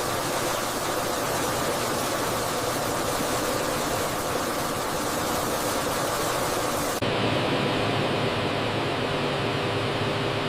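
Steady, even rushing noise. About seven seconds in it cuts abruptly to a duller rush with a steady low hum under it.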